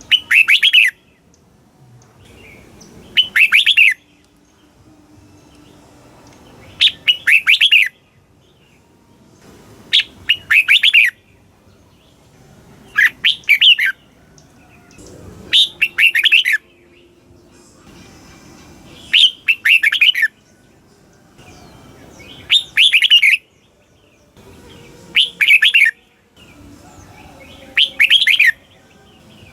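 Red-whiskered bulbul singing: short, bright, warbling phrases of about a second each, repeated roughly every three seconds, about ten in all.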